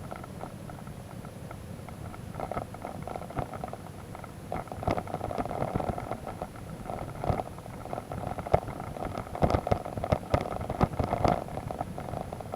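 Adventure motorcycle engine running at low revs over a rough, muddy track. Repeated sharp knocks and rattles from bumps come through the rumble, thickest in the second half.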